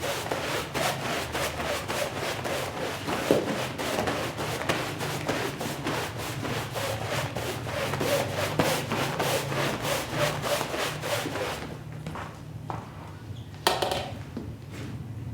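A stiff brush scrubbing a wet shag rug in quick, regular back-and-forth strokes, several a second. The strokes stop about twelve seconds in, followed by a single sharp knock near the end, over a steady low machine hum.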